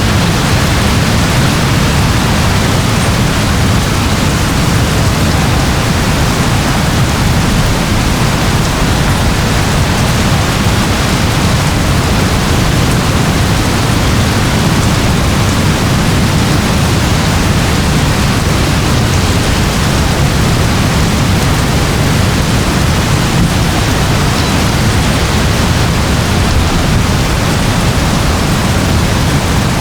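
Steady rain, a constant even hiss with a heavy low rumble underneath, with no single drops or thunder standing out.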